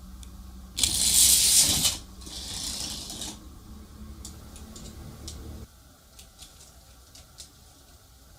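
Small homemade toy mechanism rattling loudly for about a second, then more quietly for another second, over a low steady hum that cuts off suddenly past the halfway point; a few light clicks follow.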